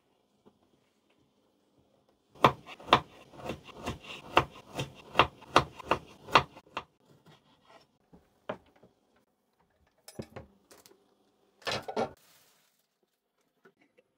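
A quick run of sharp knocks and clatter on a hard surface, about three a second, for some four seconds, followed by a few scattered clicks and two short clatters later on.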